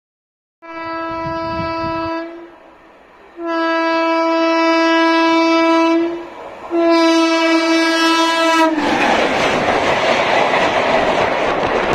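Indian Railways locomotive horn of an approaching express sounding three steady-pitched blasts, the middle one the longest, then the LHB coaches passing close at high speed with a loud rushing noise.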